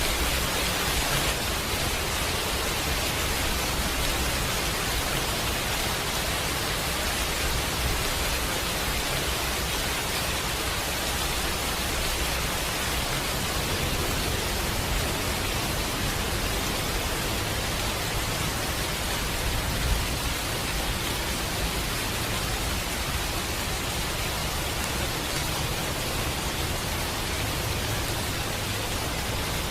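Steady rain hiss without a break, with one short sharp pop about two-thirds of the way through.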